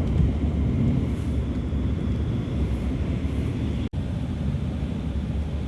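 Steady low rumble of a car driving, with road and tyre noise, heard from inside the cabin. The sound cuts out for an instant about four seconds in.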